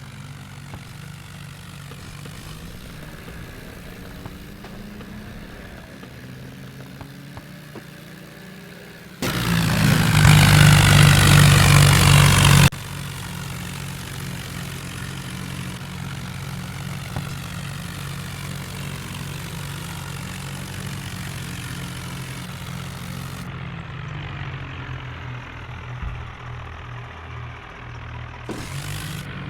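Diesel tractor engine running steadily, with a much louder stretch of about three and a half seconds near the middle that starts and stops abruptly.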